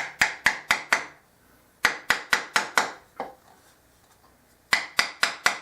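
A thin putty knife being tapped into the paper-and-glue joint between a bowl and its glued-on waste block to split them apart: sharp knocks with a brief ring, about four a second, in three quick runs of four or five taps.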